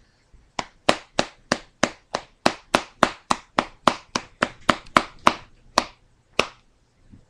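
A plastic-lidded tin of Kayak Grape long cut dipping tobacco being packed by hand: about twenty sharp taps, roughly three a second, which then stop.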